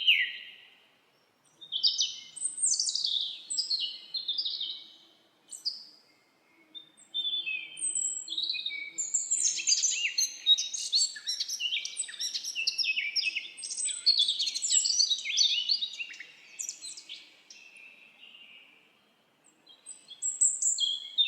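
Songbirds singing: phrases of quick high chirps and trills, several birds overlapping through the middle, broken by short pauses about a second in, around six seconds in and near the end.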